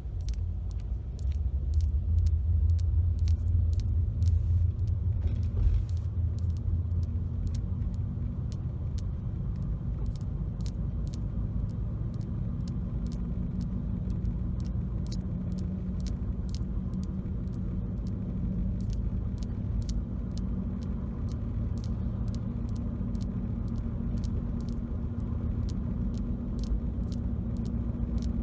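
Car running down the road, heard from inside the cabin: a steady low rumble and engine hum that builds up over the first couple of seconds. Many quick, light clicks or taps run over it.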